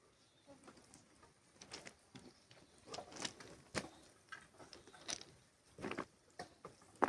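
A run of irregular scuffs, taps and small knocks at uneven intervals.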